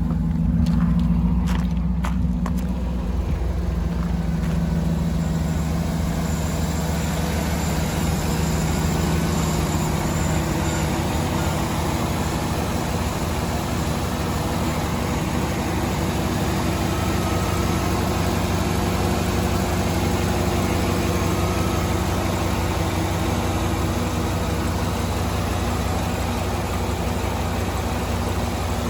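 A 2007 GMC Yukon Denali's 6.2-litre V8 running at idle, with 203,819 miles on it. It settles over the first several seconds and then idles steadily.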